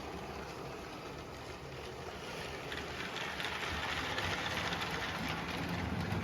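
Motorised LEGO passenger train running on plastic track: a steady whirr and rattle of motor and wheels, with light clicks. It gets louder about halfway through as the train comes closer.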